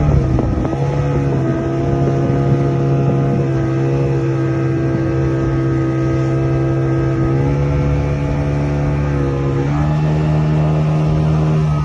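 Motorboat engine running steadily under way, its pitch shifting slightly a couple of times.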